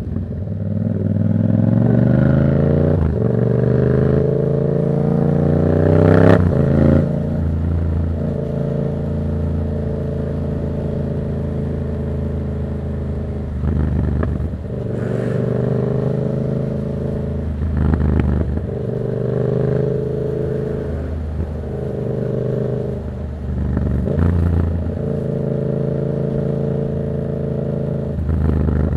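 Yamaha MT-07's 689 cc parallel-twin engine, breathing through an open Black Widow exhaust with the dB killer removed, pulling hard with the pitch climbing through two quick upshifts in the first six seconds. It then cruises at a steady pitch, with brief throttle lifts and shifts every few seconds.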